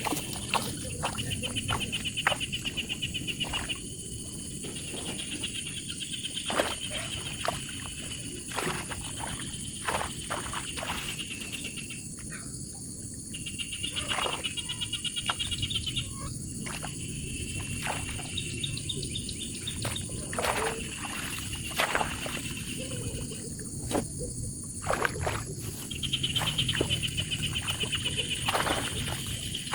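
Outdoor animal calls: high trills of rapid pulses, each lasting a second or two and repeating every few seconds, over a steady high-pitched whine, with scattered sharp clicks and knocks.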